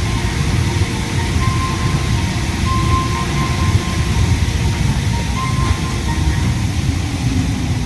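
Inside a Yui Rail monorail car: a steady low rumble of the running train mixed with loud air-conditioning noise, with a faint high tone that comes and goes.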